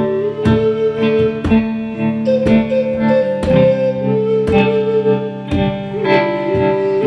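Live instrumental song intro: guitar chords struck about once a second under a sustained melody line.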